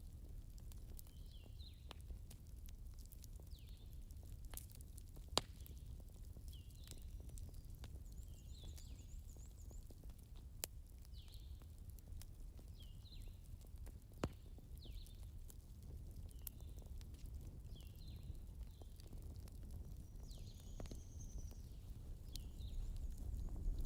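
Campfire crackling, with scattered sharp clicks, a few louder pops and a low rumble under them. Short high chirps repeat about once a second alongside.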